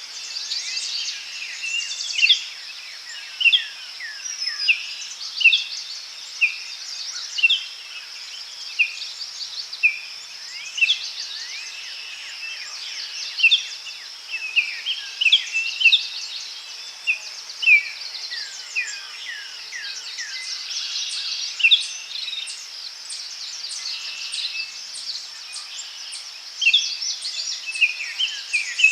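Forest ambience: many birds calling in short, mostly falling chirps over a steady high insect buzz.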